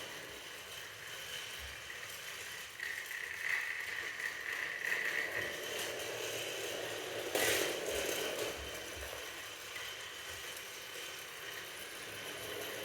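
Toy train running along its track, its small motor and gears giving a steady mechanical rattle. A higher whine rises over it for a couple of seconds about three seconds in, and there is one sharp click about seven seconds in.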